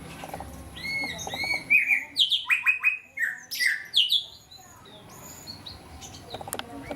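Cinereous tit (gelatik batu) calling: a series of sharp, arched chirps, with a quick burst of loud notes in the middle that fades away after about four and a half seconds.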